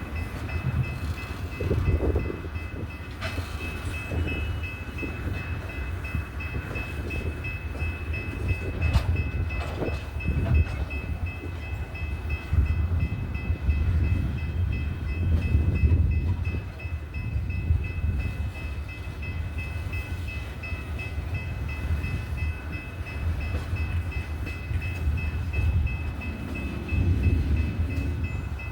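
Loaded coal train moving on the rails: a continuous low rumble that swells and eases, with a few sharp metallic clanks, and a faint steady high whine throughout.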